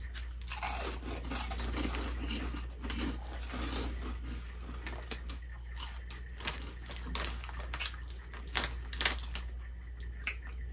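Two people chewing crunchy spicy Mexican chips, with irregular sharp crackles as the chips break.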